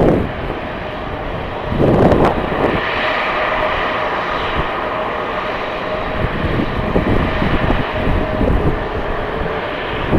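Jet airliner engines running with a steady whine and hiss, while gusts of strong wind buffet the microphone, the strongest about two seconds in.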